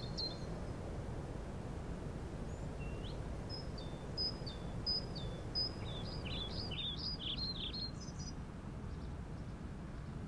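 A bird chirping in a quick series of short high notes, starting about two and a half seconds in and stopping near the eight-second mark, over a steady low rumble of background noise.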